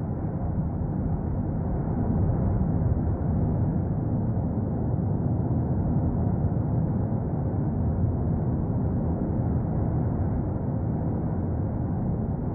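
Steady low rumble of the erupting Cumbre Vieja volcano, even and unbroken.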